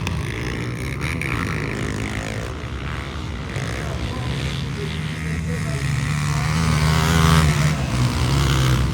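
Motocross motorcycle engines revving, their pitch rising and falling as the throttle opens and closes, loudest near the end.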